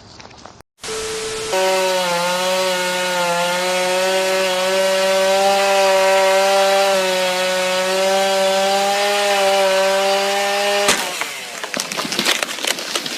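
Two-stroke chainsaw running at high revs and cutting wood, a steady held note with a slight waver in pitch. It stops abruptly after about eleven seconds and gives way to a scatter of sharp cracks and knocks.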